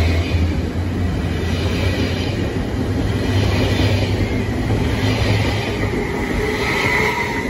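Swiss double-deck S-Bahn electric train running past at close range, with a steady loud rumble of its wheels on the rails. A thin high whine grows stronger near the end.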